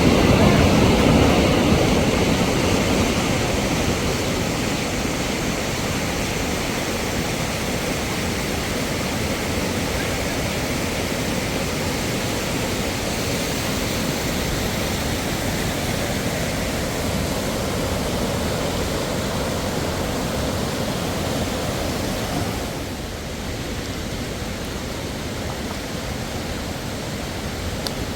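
Waterfall rushing: a steady wash of falling water that eases a little after the first couple of seconds and steps down slightly late on.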